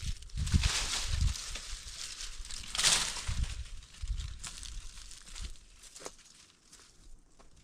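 Rustling and crinkling of material being handled, with a few dull low thumps in the first second and a half and a louder rustle about three seconds in, growing fainter toward the end.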